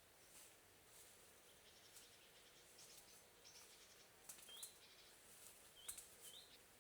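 Faint forest ambience in which a small bird gives three short rising chirps in the second half, over a few soft scattered clicks.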